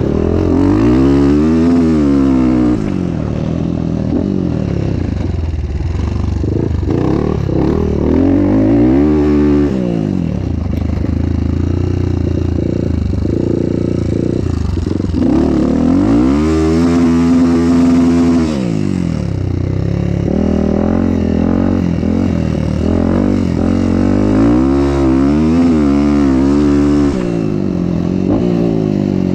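Motocross bike's engine pulling up through the revs and easing off several times while riding, rising and falling in pitch about four times.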